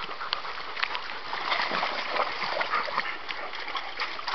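Water splashing: a steady wet patter dotted with many small, irregular splashes.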